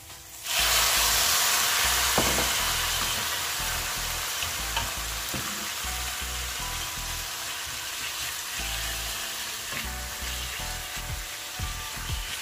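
Diced raw chicken breast dropped into hot olive oil with onion and garlic in a frying pan: a loud sizzle starts suddenly about half a second in and slowly dies down. A wooden spatula stirs the meat near the end, with a few light knocks.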